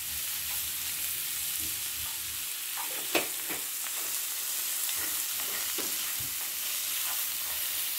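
Shrimp, onion and garlic sizzling in a nonstick frying pan as a wooden spoon stirs them: a steady high hiss with scattered scrapes and taps of the spoon, the loudest tap about three seconds in.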